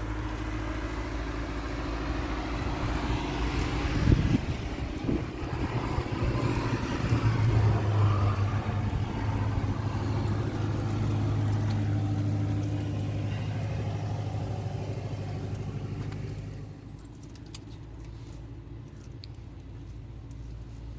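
A motor vehicle engine running steadily with a low hum. It swells louder through the middle, then drops off sharply about three-quarters of the way through. There are a couple of knocks early on.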